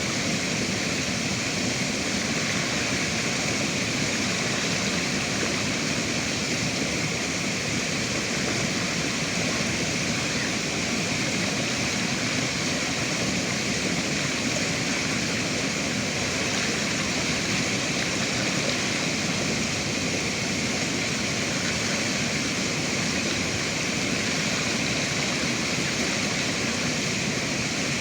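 River water rushing steadily, an even unbroken wash with no other sounds.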